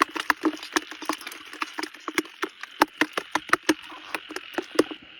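Quick, irregular wet slaps and taps, three or four a second, that stop just before the end. A steady chorus of insects and frogs from the paddy field continues behind them.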